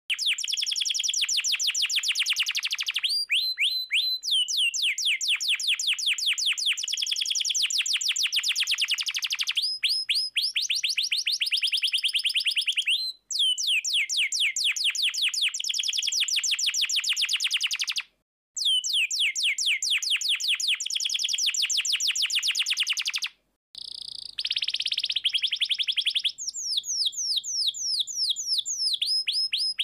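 Domestic canary singing: long rapid trills of repeated falling notes, about eight a second. The phrases are broken by brief pauses.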